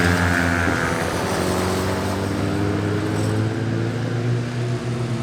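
Motorcycle engine passing by at speed: its note drops in the first second, then rises slowly and steadily as the bike accelerates.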